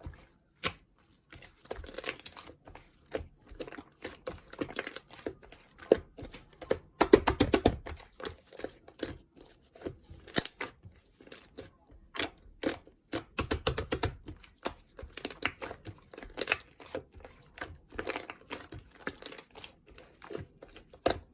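Slime being squeezed and kneaded by hand, making irregular sticky clicks and crackles, with a few louder spells of crackling.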